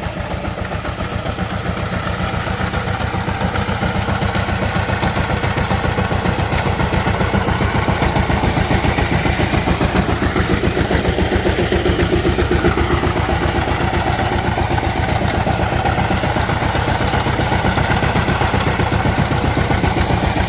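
Diesel engine of a power tiller running steadily after starting, with a fast, even beat of firing pulses. It grows a little louder over the first several seconds, then holds steady.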